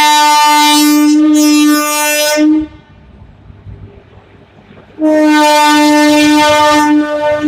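Air horn of an Indian Railways WAP electric locomotive sounding two long blasts, one steady pitch each, the second starting about two and a half seconds after the first ends.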